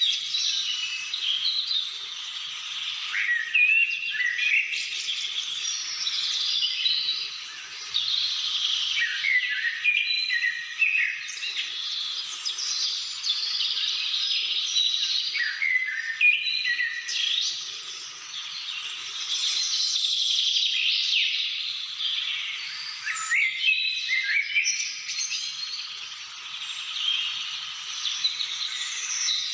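A chorus of several birds singing and calling at once: a continuous tangle of overlapping high chirps, trills and short whistled notes.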